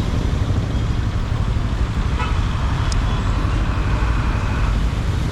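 Steady low rumble of a motorcycle ride through city traffic, engine and wind on the rider's microphone, with a vehicle horn tooting about two seconds in.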